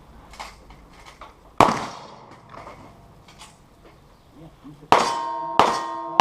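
Three gunshots on steel targets in cowboy action shooting. One comes about a second and a half in, then two close together near the end, each followed by steel plates ringing with clear metallic tones. Lighter clicks of gun handling fall between them.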